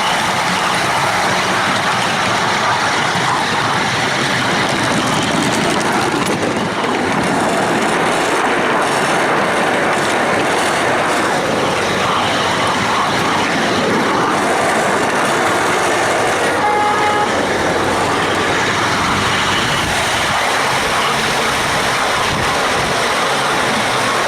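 Steady running noise of a 7¼-inch gauge miniature railway train heard from on board, wheels and carriages rolling along the track. A short high tone sounds briefly about two-thirds of the way through.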